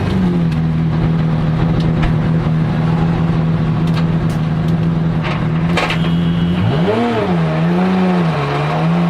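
Porsche 997 GT2 RSR's twin-turbo 3.9-litre flat-six running at a steady speed, with a few sharp clicks. About seven seconds in it is revved up and down in quick throttle blips.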